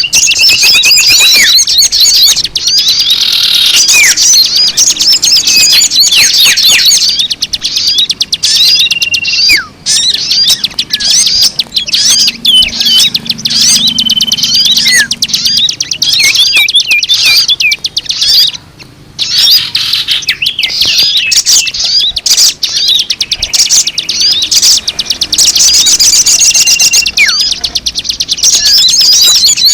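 Recorded small-bird song used as a bird lure: dense, loud twittering and fast chirping trills, with a short level whistle coming back several times. The sound breaks off briefly about two-thirds of the way through.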